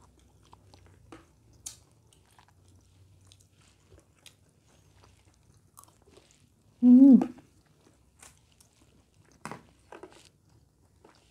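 Close-up eating sounds of fried rice and raw leafy greens being chewed: soft crunches, mouth clicks and spoon taps. One short vocal sound comes about seven seconds in.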